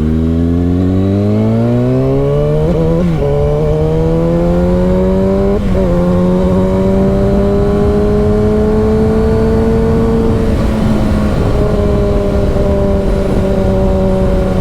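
Motorcycle engine accelerating through the gears: the pitch climbs, drops with an upshift about 3 seconds in and again about 5.5 seconds in, then rises slowly and settles to a steady cruise. Steady wind rush runs underneath.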